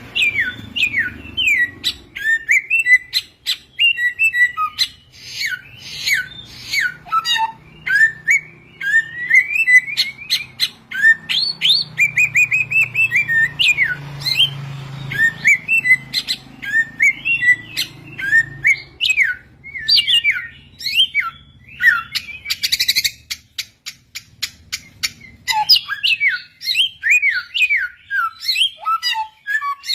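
Samyong (rufous-fronted laughingthrush) singing: a busy, continuous run of quick chirps and short whistles that sweep sharply up and down in pitch, with a faint low hum underneath.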